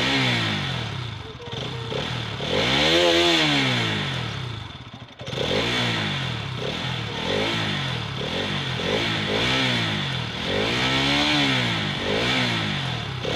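Bajaj Pulsar 200cc motorcycle's single-cylinder engine being revved, the pitch rising and falling repeatedly. The biggest rev comes about three seconds in, followed by five or six shorter blips of the throttle.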